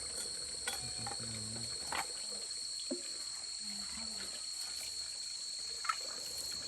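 Insects, crickets by their sound, keep up a steady high-pitched trill. A few light knocks and taps from handling come through at scattered moments, along with a faint low murmur.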